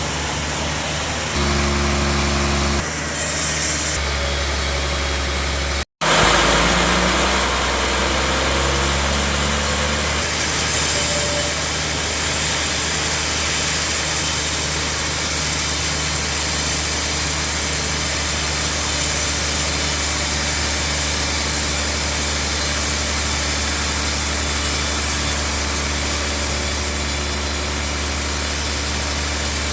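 Sawmill machinery running steadily with a low engine hum, broken by a brief gap about six seconds in.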